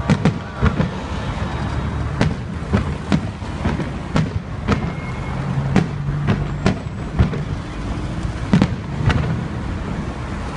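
Aerial firework shells bursting overhead: a string of sharp bangs at irregular intervals, roughly one or two a second, some followed by a short echo. A steady low hum runs beneath.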